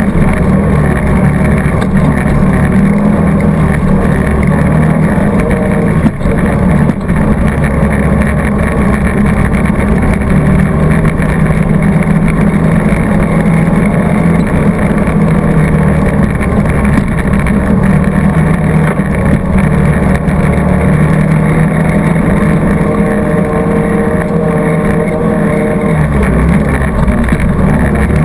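ATV engine running under throttle on a trail ride, its pitch shifting up and down a little with the throttle, with a brief knock about six seconds in.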